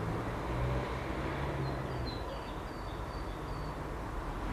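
Outdoor ambience: a steady low hum with a bird chirping a run of about six short, high notes in the middle.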